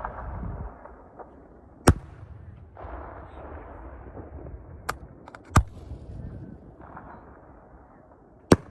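Aerial fireworks going off: four sharp bangs at uneven intervals, with a lower rumbling hiss swelling and fading between the reports.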